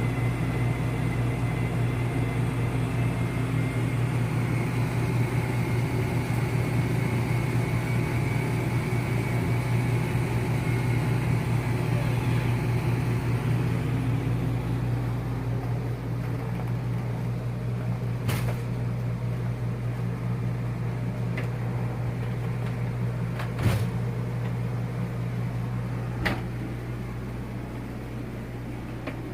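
Steady low mechanical hum, with a few sharp clicks or knocks in the second half.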